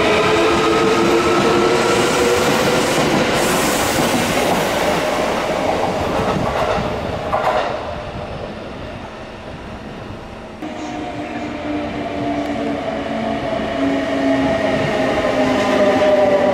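Electric commuter train pulling out, the whine of its traction motors rising slowly in pitch and fading over the first several seconds. About ten seconds in, another train comes in, and its motor whine slowly falls in pitch as it brakes and grows louder.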